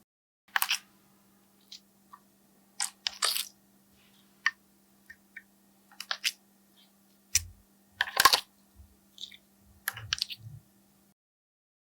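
Slime being pressed and worked by hand, giving scattered short sticky clicks and crackles of uneven loudness over a faint steady hum. The sound cuts out abruptly near the end.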